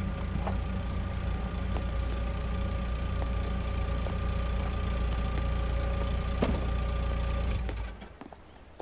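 Vintage Cadillac convertible's V8 engine idling steadily, with a single light knock a little after six seconds; the engine sound cuts off just before the end.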